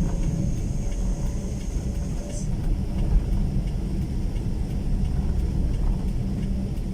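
Motorcycle riding down a steep road: a steady low rumble of engine, road and wind noise, with a faint high whine that stops about two and a half seconds in.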